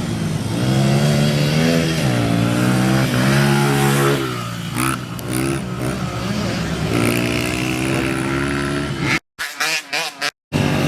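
Dirt bike engines racing, revving up and down through the gears so the pitch keeps rising and falling. The sound cuts out completely twice near the end.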